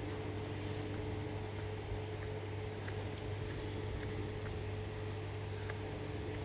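Steady low mechanical hum with a constant higher tone above it and a second tone that comes and goes, with a few faint ticks.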